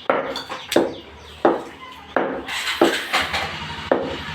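Butcher's cleaver chopping chicken into small pieces on a chopping block: about seven sharp chops, roughly one every 0.7 seconds.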